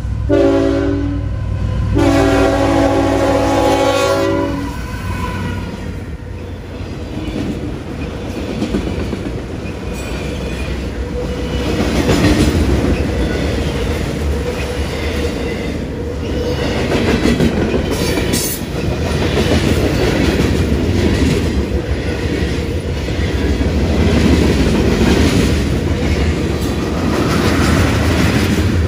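Locomotive horn on a CSX manifest freight train sounding a short blast, then a longer one, as a chord of several notes. The train then rolls past, with the diesel locomotives and freight cars rumbling and wheels clicking steadily over the rail joints.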